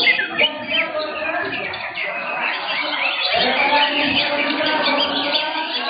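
Many caged cucak hijau (greater green leafbirds) singing at once, a dense tangle of overlapping quick whistles and chirps, with a murmur of crowd voices underneath.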